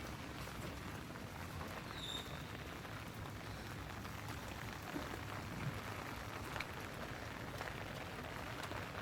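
Heavy rain pouring down steadily, with a few louder drips or splashes standing out now and then.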